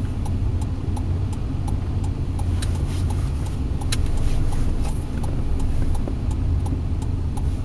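Car engine and road noise heard from inside the cabin, a steady low rumble, with a light regular ticking about three times a second.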